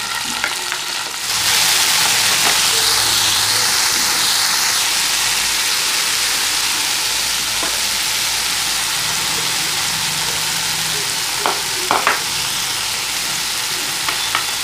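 Peeled prawns frying in hot oil in a pan: a steady sizzle that grows clearly louder about a second and a half in and then holds, with a few light clicks near the end.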